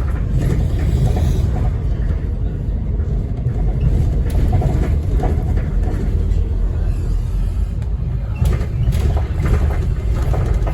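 Onboard sound of a 2008 Scania N230UD OmniCity double-decker bus under way: steady low rumble of the diesel engine and road noise, with a few short rattles near the end.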